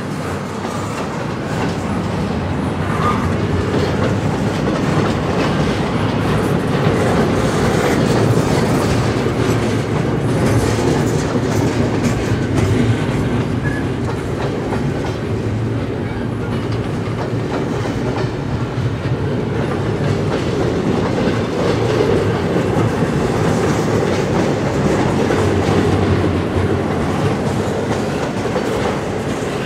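Double-stack intermodal container cars of a freight train rolling past, a steady rumble and clatter of steel wheels on the rails.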